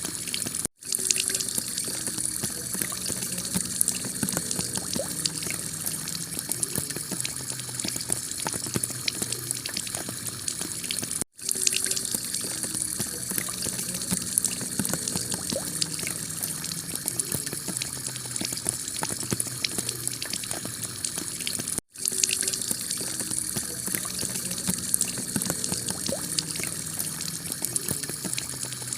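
Heavy rain falling steadily on a clay tile roof: a dense hiss with many small drop hits. The sound cuts out for an instant three times, about ten seconds apart, where the recording loops.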